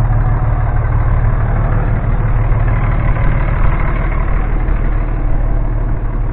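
Vehicle engine running steadily at idle, a continuous low hum.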